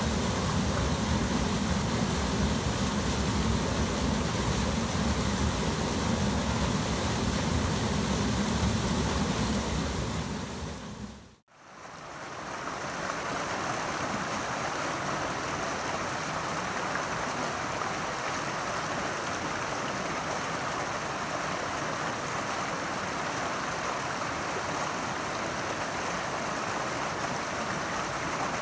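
Steady rushing water of a small waterfall on the South Fork Snoqualmie River. A little before halfway it fades out to silence and fades back in, now with less low rumble and more hiss.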